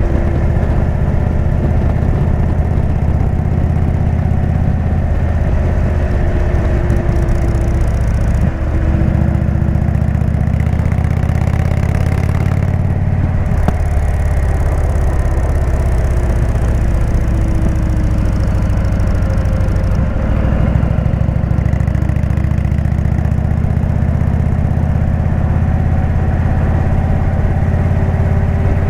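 Indian V-twin motorcycle engine with a Jekill & Hyde exhaust running steadily under way. The engine note shifts pitch a few times, with short dips at about 8 s, 13 s and 20 s.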